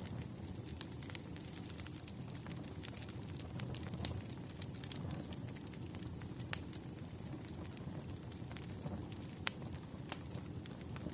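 Burning firewood crackling: a steady low rush with sharp pops and snaps scattered irregularly through it, a few of them louder than the rest.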